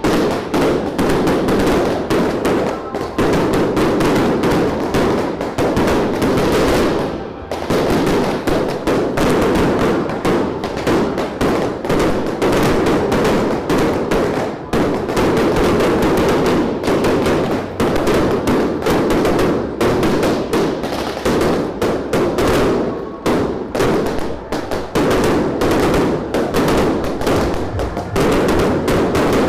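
A barrage of exploding bottle rockets and firecrackers from a Yanshui beehive rack: a dense, nonstop crackle of rapid bangs, with a brief lull about seven seconds in.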